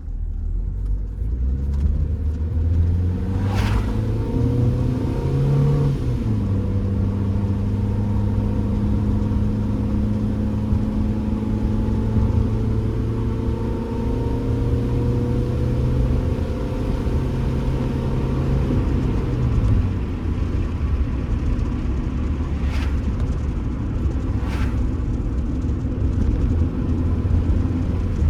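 Stock Honda Civic engine and road noise from inside the cabin as the car is driven: the engine note climbs, drops with a gear change about six seconds in, holds steady, then falls away around twenty seconds. A few sharp rattles come from the phone mount.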